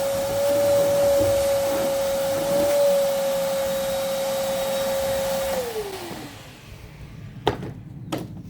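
Vacuum cleaner running with a steady whine as it vacuums up debris, switched off about five and a half seconds in, its motor winding down with a falling whine. Two sharp knocks follow near the end.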